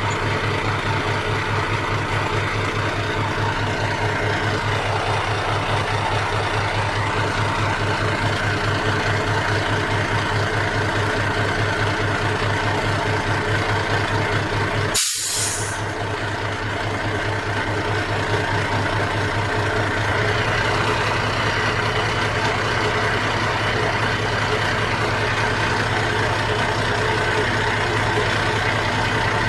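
Heavy diesel engine of earth-moving machinery running steadily with a low pulsing note. A short hiss comes about halfway through.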